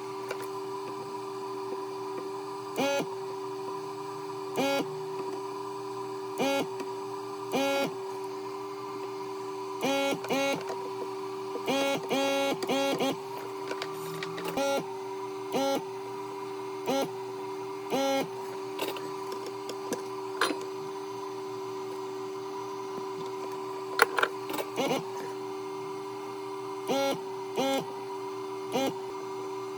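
A machine's steady hum with short whirring mechanical bursts over it, repeating irregularly about once a second and coming in a quick cluster partway through, with one sharp click later on.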